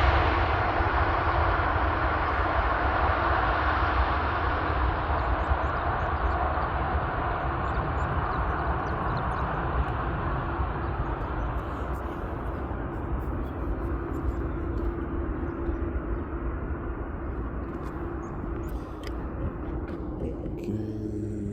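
Jet airliner engine noise slowly fading away after the aircraft passes on its landing approach, a steady rushing roar with a faint whine underneath. A low hum starts near the end.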